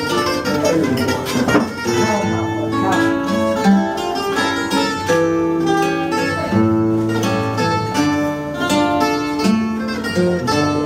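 Portuguese guitar playing a fado introduction, its bright plucked melody over the viola's (classical guitar's) bass and chord accompaniment.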